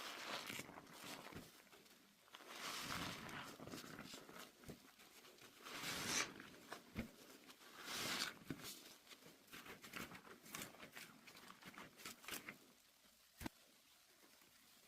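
Soap suds on hot water fizzing and crackling: faint hissing that swells up several times, then scattered small pops and crackles in the later part.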